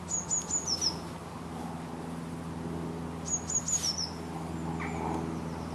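A bird repeating the same short, high-pitched phrase twice, about three seconds apart: three quick notes followed by two slightly lower ones. A faint steady low hum runs underneath.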